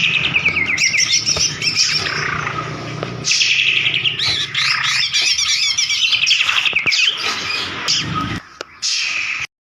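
White-rumped shama (murai batu) singing a fast, unbroken song of varied chirps and whistles, with a low hum under the first three seconds. The song breaks briefly near the end, then cuts off suddenly.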